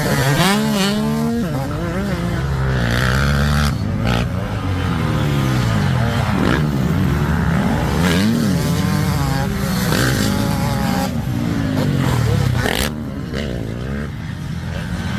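Dirt bike engine being ridden, its pitch climbing and dropping again and again with the throttle and gear changes, with a few short knocks along the way.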